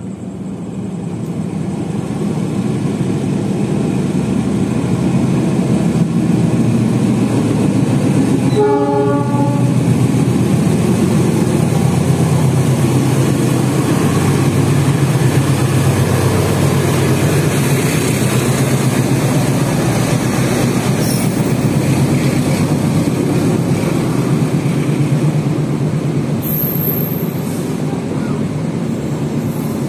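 Diesel locomotive hauling a passenger train through the station at speed without stopping. The engine's rumble builds, a horn sounds briefly about nine seconds in, then the coaches roll past with a steady rattling of wheels on rail.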